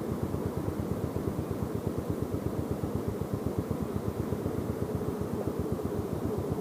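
Yamaha Jupiter Z's single-cylinder four-stroke engine running steadily, its exhaust pulsing at a quick, even beat.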